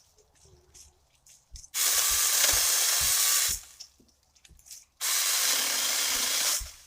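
Saker 20V cordless mini chainsaw run in two bursts of about two seconds each, starting and stopping abruptly with a short pause between, as it cuts through green branches.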